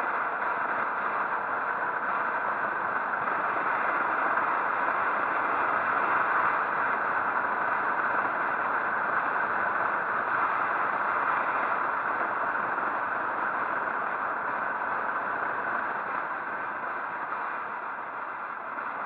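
Steady rushing wind and road noise of a motorcycle ride, with no clear engine note.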